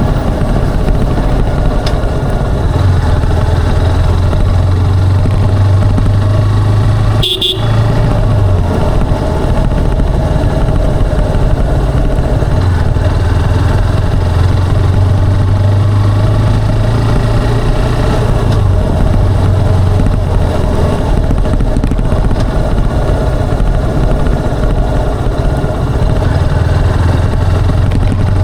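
Motorcycle engine and exhaust running under way, its low note swelling and easing as the throttle changes. About seven seconds in, the engine note briefly drops out and a short high beep sounds.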